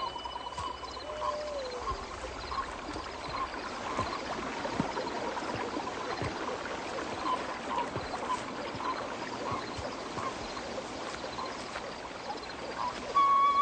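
Woodland soundscape: a steady wash of water with short chirping animal calls repeating about twice a second. Near the end a louder wavering, piping tune begins.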